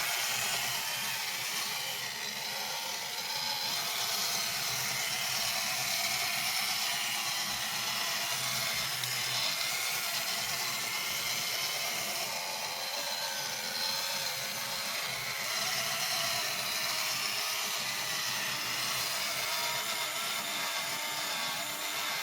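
Battery-powered plastic robot toy running, its small electric motor and plastic gears whirring steadily.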